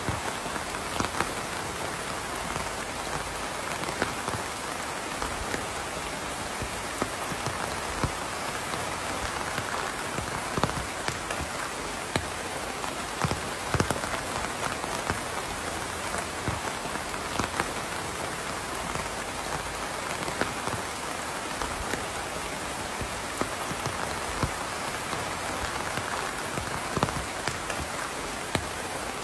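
Steady rain falling, with a continuous hiss and many separate drops striking a surface close by as irregular taps.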